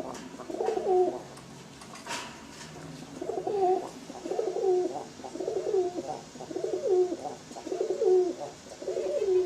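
Domestic pigeon cooing over and over, a short warbling coo about once a second, with a pause early on. A single sharp click comes about two seconds in.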